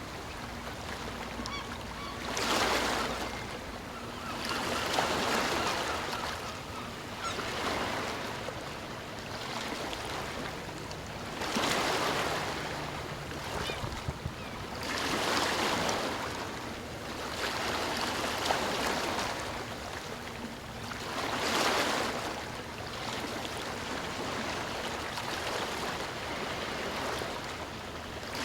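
Sea waves breaking and washing ashore, swelling into a louder surge every few seconds and ebbing between them.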